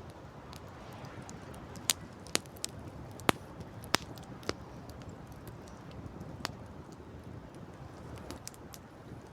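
Campfire crackling: irregular sharp pops and snaps of burning wood, loudest about three seconds in, over a steady low rush.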